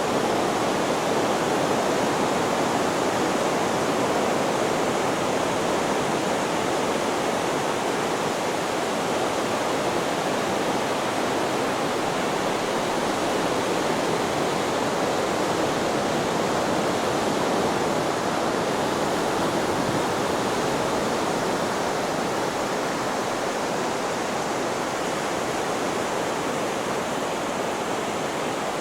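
Steady, unvarying white noise: a continuous even hiss with no rise and fall of breaking waves.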